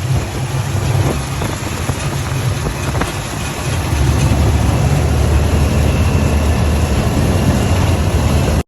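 Engine running steadily with a low rumble, a little louder from about four seconds in, cutting off abruptly at the end.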